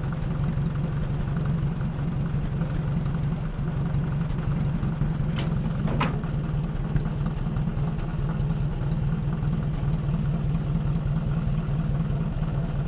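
Tractor engine running steadily at idle while its hydraulics lift a brush cutter on the three-point hitch. Two short, sharp clanks come about five and six seconds in.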